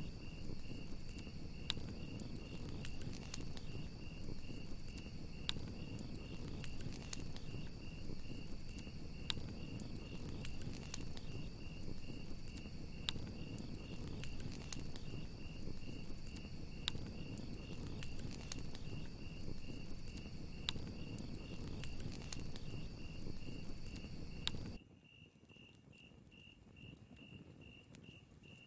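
Campfire crackling and hissing, with sharp pops, under crickets chirping steadily about twice a second. About 25 seconds in, the fire sound cuts off abruptly and only the crickets remain.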